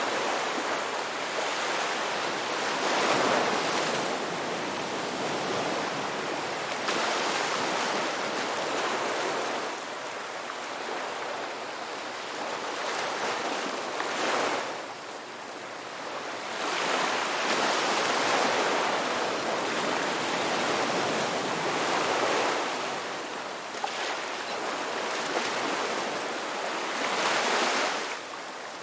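Ocean waves breaking and washing up on a beach, the surf swelling and easing back in surges every few seconds.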